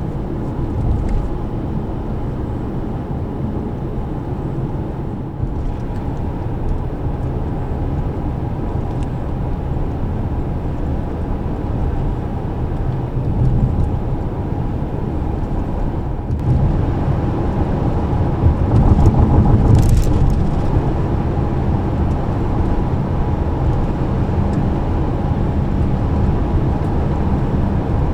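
Toyota Alphard's 3.5-litre 2GR-FKS V6 engine running under way at speed, mixed with steady road and wind noise. The sound gets louder about two-thirds of the way through.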